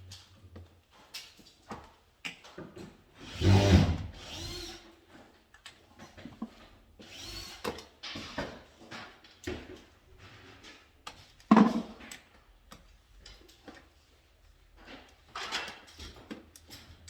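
A cordless power drill-driver runs in several short bursts, the longest about three and a half seconds in, amid small clicks and rattles of parts being handled.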